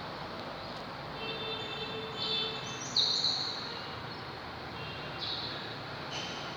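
Lovebirds chirping: several short, high-pitched chirps over a steady background hiss, the loudest about three seconds in.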